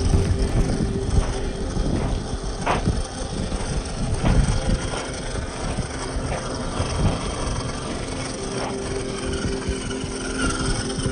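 A Reely Free Men RC rock crawler driving over rough ground: its small electric motor and gears whine with a steady hum, with a few sharp knocks from the chassis and tyres.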